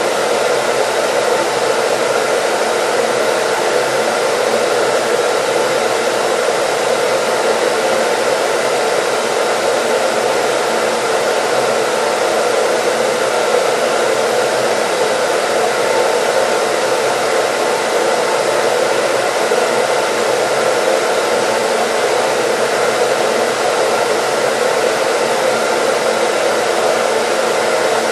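Hair dryer running steadily: an even rush of blown air with a faint motor whine and no change in speed.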